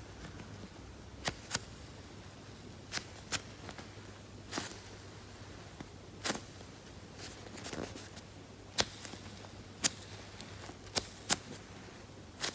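Squishy toys being handled, heard as about ten sharp clicks and taps at uneven intervals over a faint steady low hum.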